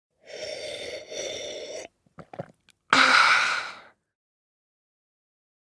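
Non-verbal human vocal sounds acting out a feeling: a long breathy exhale in two parts, a few small clicks, then a louder, shorter breathy sound like a sigh or gasp.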